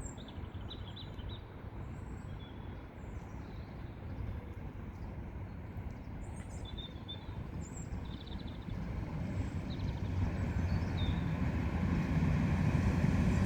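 NI Railways Class 3000 diesel multiple unit approaching the platform, its low rumble growing steadily louder over the last few seconds. Birds chirp faintly in the first half.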